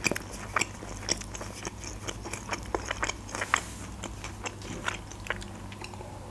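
Close-miked chewing of a mouthful of doner kebab in bread, with irregular wet mouth clicks.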